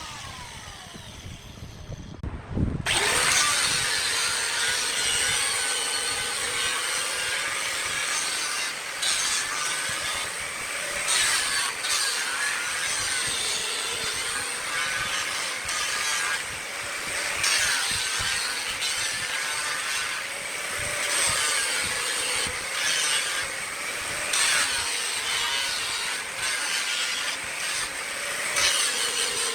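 Wood lathe: a whine falling in pitch for the first few seconds, then, about three seconds in, a sudden loud, steady scraping of a tool cutting wood on the spinning workpiece, with a wavering hum under it.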